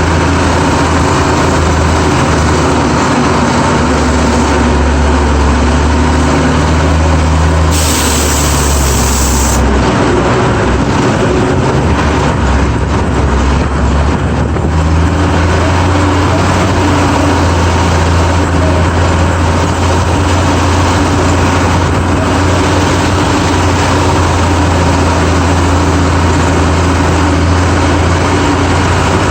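GMC DUKW amphibious truck's straight-six engine running steadily under way, heard from on board, with a strong low drone. About eight seconds in, a short hiss lasts nearly two seconds.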